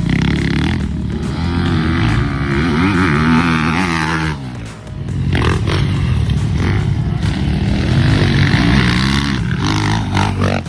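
Motocross bike engines revving hard, the pitch rising and falling with throttle and gear changes, with a brief lull about four and a half seconds in.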